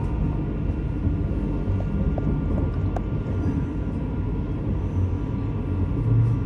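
Electric passenger train running, a steady low rumble with faint steady motor whine tones above it.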